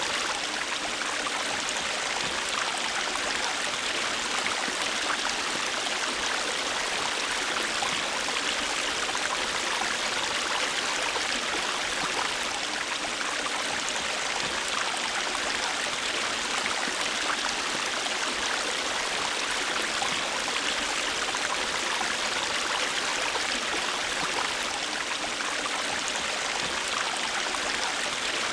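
River water flowing over rocks: a steady rushing with fine splashing and gurgling.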